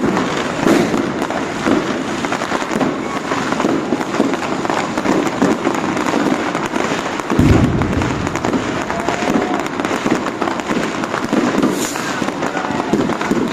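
New Year's Eve fireworks and firecrackers going off all around in a continuous dense crackle of bangs, with one heavy deep boom about seven and a half seconds in.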